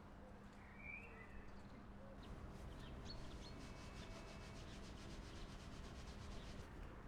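Quiet, rapid rubbing strokes starting about two seconds in, with a bird chirping once about a second in.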